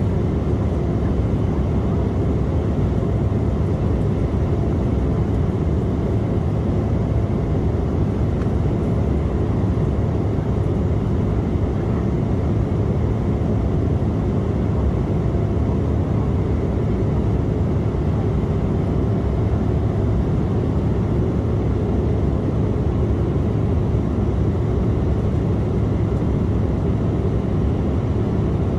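Steady cabin noise inside an Embraer E175 in flight: an even rumble of engine and airflow with a faint steady hum, unchanging throughout.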